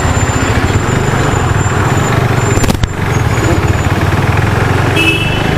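KTM RC 390's single-cylinder engine running steadily while riding, under a wide rush of wind, with a short dip about three seconds in. A brief high beep sounds near the end.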